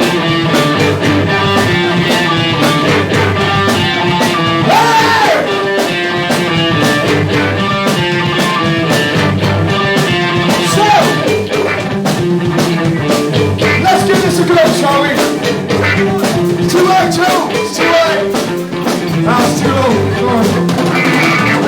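Live band music: a rock number with guitar and a steady beat.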